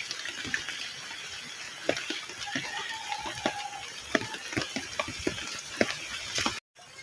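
Irregular light knocks and crackling rustles of soil and a seedling being handled as a young tree is set into its planting hole. The sound cuts out abruptly for a moment near the end.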